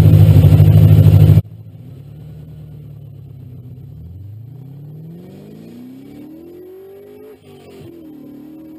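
Ford Mustang drift car engine heard from under the car, opening with a very loud low pulsing rumble that cuts off abruptly about a second and a half in. The engine note then climbs in pitch as the car accelerates away, drops briefly about seven and a half seconds in, and climbs again.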